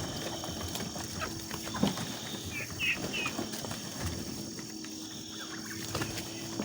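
A flock of chickens clucking and calling as they come out of the coop. Three short high chirps come near the middle.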